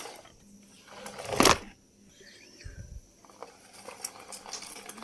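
Toy bulldozer being handled and pushed along, with light plastic clicks and rattles. About a second and a half in there is one brief loud scraping rush, and soon after a soft low thump.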